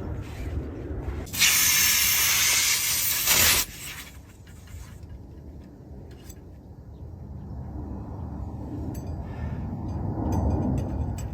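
A loud hiss of compressed air that lasts about two seconds and cuts off sharply, as air is blown into a large truck tire to inflate it.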